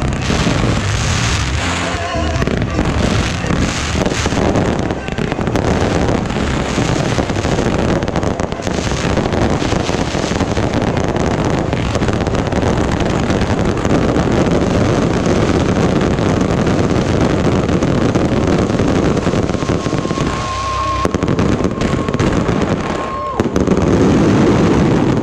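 Fireworks display: a continuous dense crackle and popping of shells bursting overhead. A thin steady whistle sounds for about three seconds near the end, followed by a louder, denser burst.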